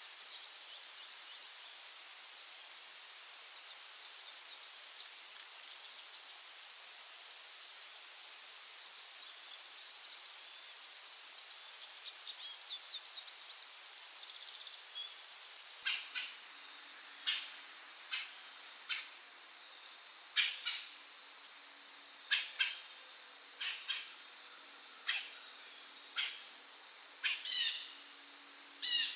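Insects trilling in one steady, unbroken high tone. About halfway through it cuts suddenly to another steady trill, slightly lower, with short bird chirps over it.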